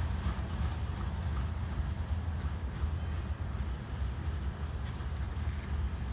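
Mixed freight train rolling past, a steady low rumble.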